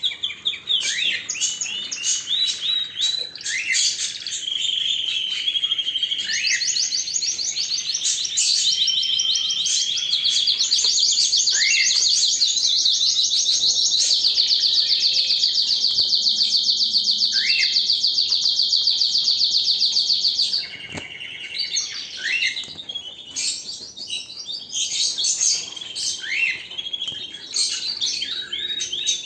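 Domestic canary singing a long, varied song of chirps and rapid trills, including one long, very fast rolling trill held for about six seconds midway, after which the song goes on in softer, broken phrases.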